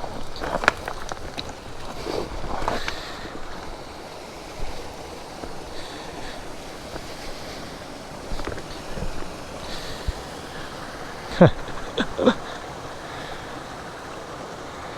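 Boulder-filled mountain stream running steadily, with a few sharp knocks and scuffs, loudest about eleven and twelve seconds in.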